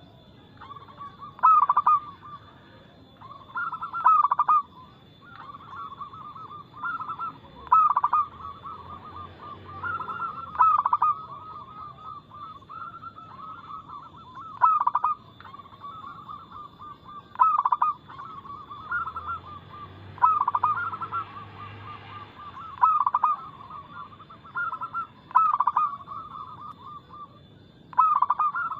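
Zebra doves (perkutut) cooing, with loud bursts of their call about every two to three seconds over softer, near-continuous cooing and a faint steady high whine.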